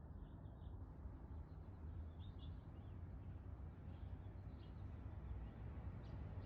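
Faint outdoor ambience: a few scattered short bird chirps over a low steady hum.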